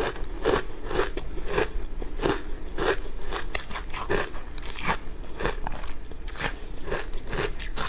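A person chewing crunchy food close to a clip-on microphone, with crisp crunching chews at a steady pace of about two a second.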